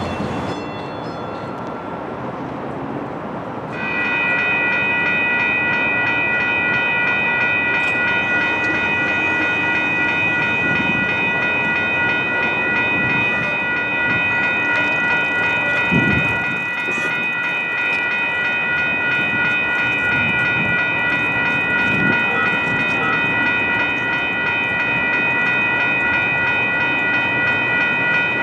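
Grade crossing warning bell starts ringing about four seconds in and keeps going steadily, over the noise of a train on the tracks at the light rail crossing.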